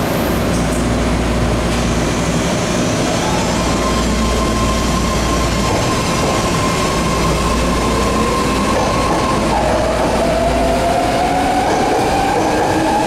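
BART train running along a station platform: steady wheel-and-track noise with a high whine that holds steady, then a second whine rising in pitch in the last few seconds.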